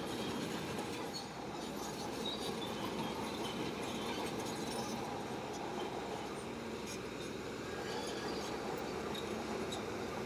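Crawler bulldozer at work: its diesel engine runs steadily under a continuous clanking of the steel tracks, with brief high squeals now and then.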